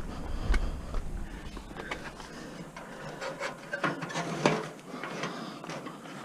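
A piece of scrap being shifted into place inside a van, rubbing and scraping with irregular knocks; the sharpest knock comes about four and a half seconds in.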